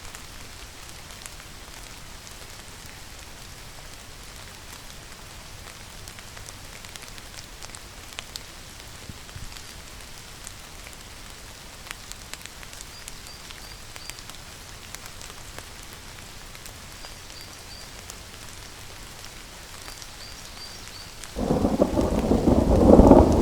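Steady rain falling with scattered drips. About 21 seconds in, a loud clap of thunder breaks suddenly and rolls on, low and growing.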